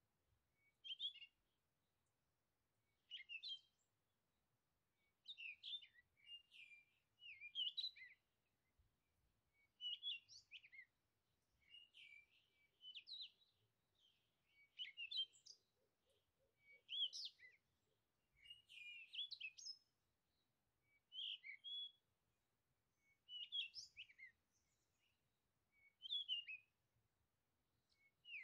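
Songbird singing short, quick warbled phrases, one every second or two, with near silence between them.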